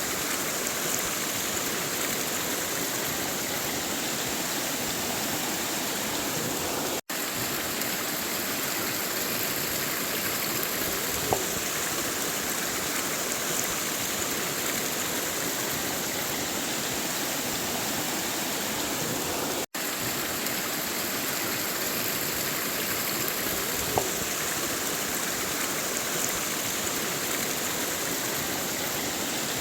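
River water flowing, a steady even rushing. It is broken twice by split-second gaps, about 7 and 20 seconds in.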